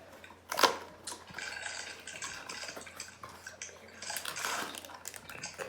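A small cardboard snack box being opened and its contents handled: a sharp click about half a second in, then rustling of the packaging.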